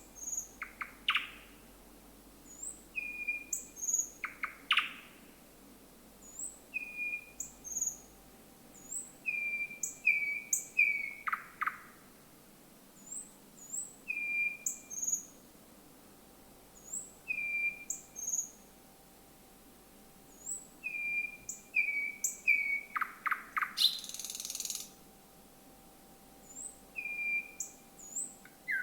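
Thrush nightingale singing: short phrases every two to three seconds, each made of clear high whistled notes and dry clicking notes. About two-thirds of the way through comes a brief harsh rasping note.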